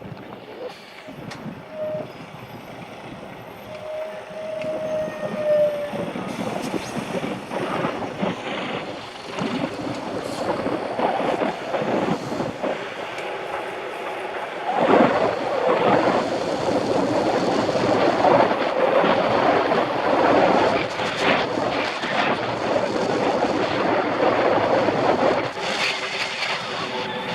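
Mountain bike ridden over rough ground: a steady rattle and rumble with wind on the microphone, louder and busier in the second half. A brief squeal sounds a couple of times near the start.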